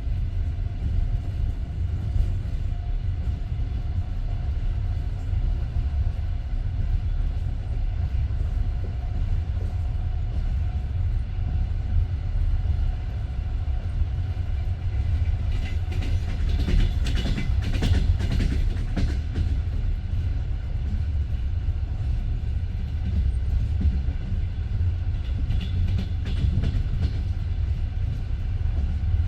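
Passenger train carriage running along the track: a steady low rumble of wheels on rails, with stretches of sharp clicking and rattling about halfway through and again near the end.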